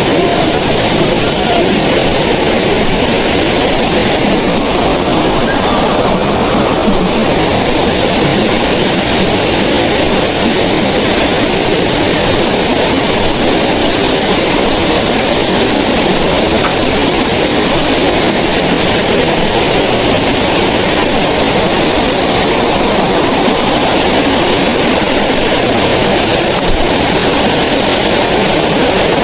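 Small waterfall rushing: a loud, steady, unbroken noise of falling water.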